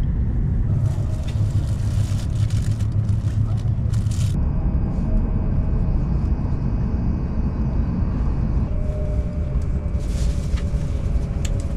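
Steady running rumble heard inside a Shinkansen passenger car as the train moves. The rumble is heaviest for the first few seconds and eases about four seconds in, and a faint steady high tone runs through the middle.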